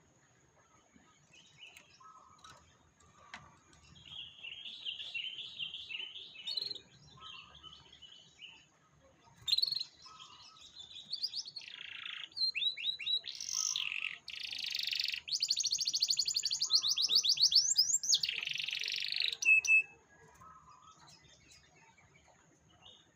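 Domestic canary singing: a short warbling phrase about four seconds in, then a longer, louder song of varied trills and rapid repeated notes from about ten seconds in, stopping near twenty seconds. A faint steady high tone and a soft lower note repeating every couple of seconds run underneath.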